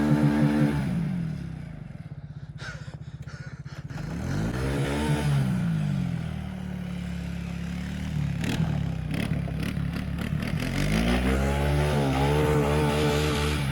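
Four-wheeler (ATV) engine revving up and down while driving in snow: it eases off about a second in, revs up and back down around four to six seconds in, and climbs again near the end. A few clattering, scraping knocks are heard along the way. The engine is running hot, with its hot light on and its oil fan running.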